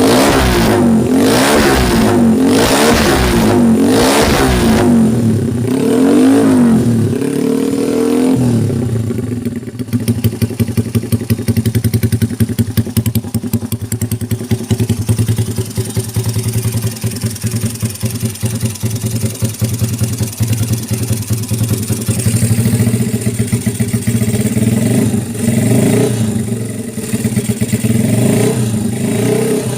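Honda Supra motorcycle's single-cylinder four-stroke engine, bored up to 130cc, being tuned. It is revved in quick repeated blips for about the first eight seconds. It then settles to a steady idle with a fast, even pulse, with a few light blips of the throttle near the end.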